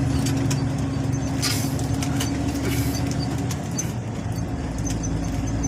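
MAN diesel truck engine running steadily as it drives, with a steady low drone and light clicks and rattles; the engine note shifts about four seconds in.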